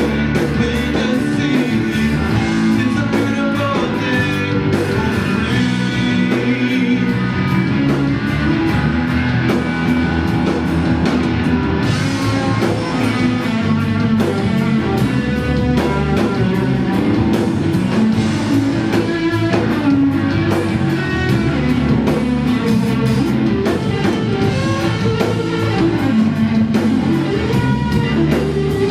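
Live rock band playing: electric guitar over bass and a drum kit, loud and continuous.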